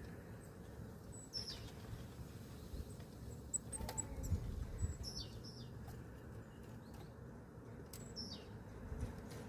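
Small songbirds chirping: scattered short high chirps and a few quick falling call notes, with a couple of sharp clicks and a steady low rumble underneath.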